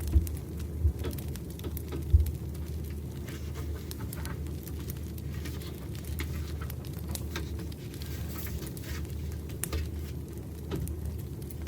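Campfire crackling: scattered small pops and snaps over a steady low rumble of burning wood.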